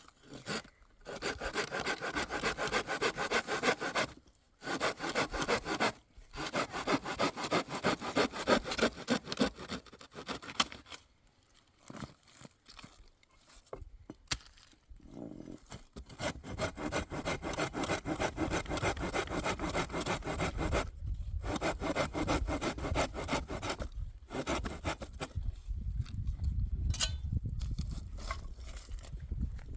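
Hand saw cutting through wood in several bouts of quick back-and-forth strokes, with short pauses between bouts.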